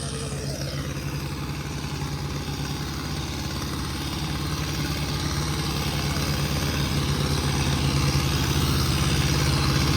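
Tractor diesel engine running steadily, growing gradually louder.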